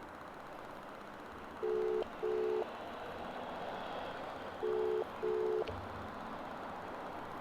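Telephone ringback tone of an outgoing call ringing out: two double rings (ring-ring), about three seconds apart, each made of two short beeps of a steady low tone.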